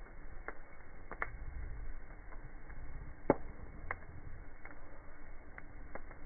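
Campfire crackling: irregular sharp pops and snaps of burning wood over a low steady rush, with one louder pop about halfway through.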